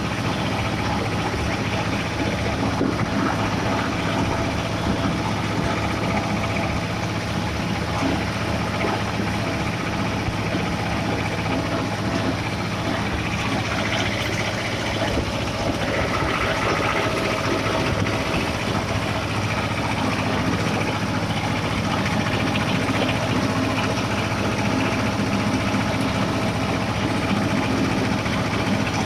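Escort 335 tractor's diesel engine running steadily at an even pitch.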